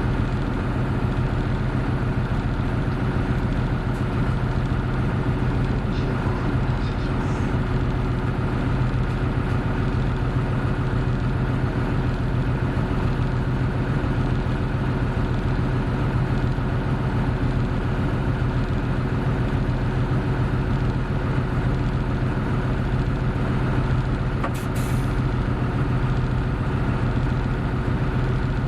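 Interior sound of a Hino Blue Ribbon City Hybrid bus (BJG-HU8JLFP) running steadily: a constant low engine drone with a steady high whine over it. A short burst of air hiss comes about 25 seconds in, typical of the bus's air brake system.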